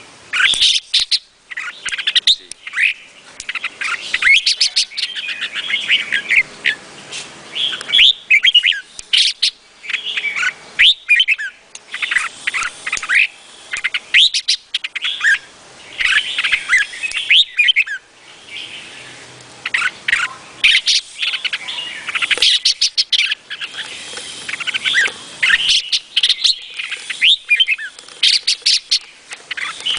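Red-whiskered bulbul of the Vietnamese strain singing: a nearly continuous run of quick chirping phrases with only brief pauses between them.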